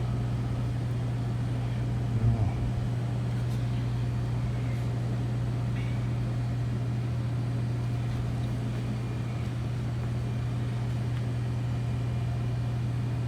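Two-door reach-in refrigerator's half-horsepower condensing unit running with a steady low hum. A brief knock about two seconds in.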